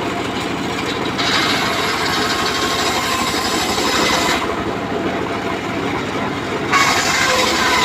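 Engine-driven home-built circular sawmill running, its rapid engine pulse steady beneath the whine of the blade cutting through teak. The sharper cutting noise drops away for about two seconds in the middle and comes back near the end.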